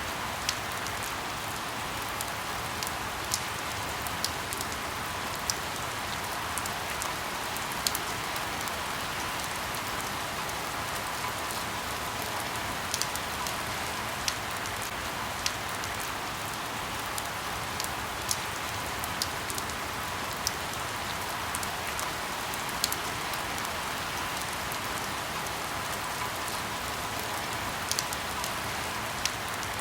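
Steady light rain falling on leaves, an even hiss with scattered louder drips landing every second or so.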